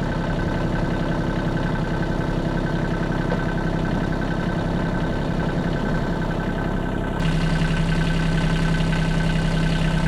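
Engine of a 1978 Kubota B6100 14 hp diesel tractor running steadily. About seven seconds in, the sound abruptly turns louder and brighter, with a strong steady hum.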